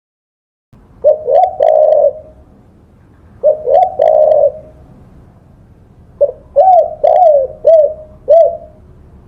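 Spotted dove (tekukur) cooing in three phrases: two short phrases of about three coos each, then a longer one of five or six. The coos begin after a moment of silence, over a faint steady background hiss.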